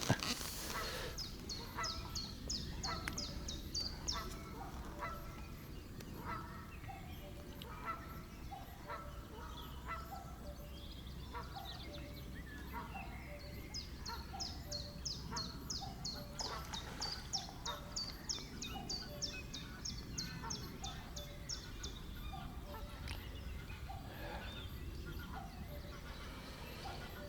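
Birds calling over and over, a steady series of short honking calls, with runs of rapid high-pitched trilling near the start and again midway.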